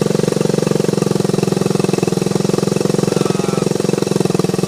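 1977 Honda CT90 Trail's 90cc single-cylinder four-stroke engine idling steadily, with a rapid even pulse.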